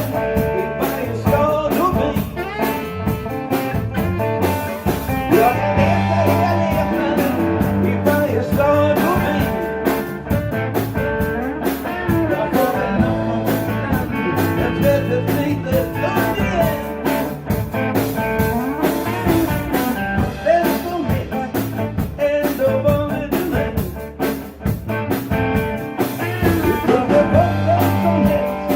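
A blues band playing live, with a steady drum beat, bass, electric guitar and organ, and some singing in Swedish.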